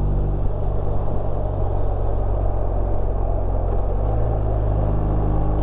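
BMW R1250 RT motorcycle's boxer-twin engine running under way with a steady rush of wind and road noise; the engine note changes about four seconds in.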